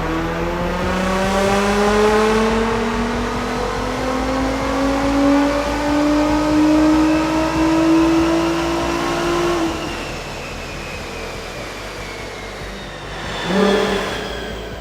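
Nissan GT-R R35's twin-turbo V6 through an iPE aftermarket exhaust, accelerating in one long pull with the pitch climbing steadily for about ten seconds. It then lifts off into quieter running, with a short sharp rev burst near the end.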